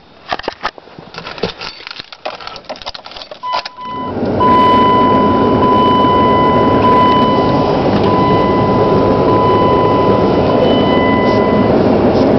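Clicks and rattles, then a 2001 Dodge Ram 1500's 5.9-litre 360 V8 starts cold about four seconds in and settles into a steady, loud idle through a single-in, dual-out Cherry Bomb Extreme exhaust. A steady high-pitched tone sounds over it for most of the run.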